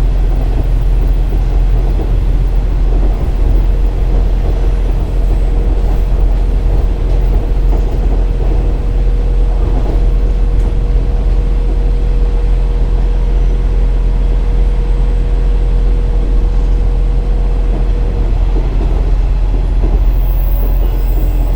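KiHa 47 diesel railcar under way: steady low rumble of the diesel engine and wheels on rail, with a steady whine that cuts off near the end.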